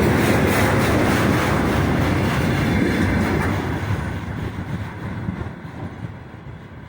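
Freight train of container flat wagons rolling past, steel wheels clattering over the rail joints; the noise fades away over the second half as the end of the train passes.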